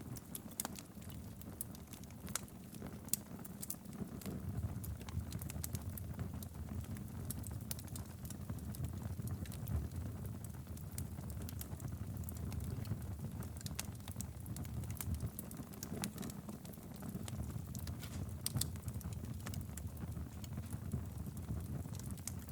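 Wood fire burning steadily in a fireplace: a low, even rumble of flames with frequent scattered crackles and pops.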